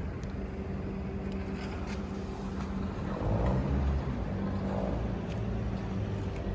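A machine motor running with a steady low hum, the hum swelling into a louder low rumble for about a second near the middle.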